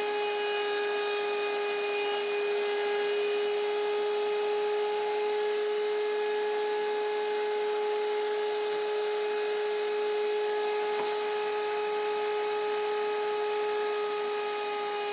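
CNC router spindle running steadily: an unchanging whine over a hiss.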